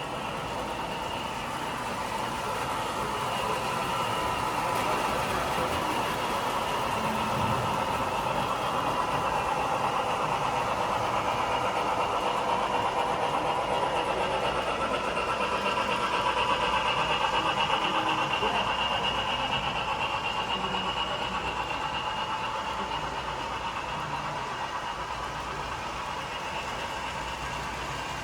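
Model train running on the track: a steady whine of the motor, gears and wheels that grows louder as the train comes close, peaking past the middle, and then fades as it moves away.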